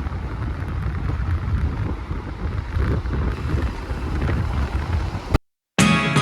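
Wind buffeting the microphone and road noise from a ride on a motorbike, a steady low noise with no clear engine note. It cuts out abruptly a little over five seconds in, and acoustic guitar music starts just before the end.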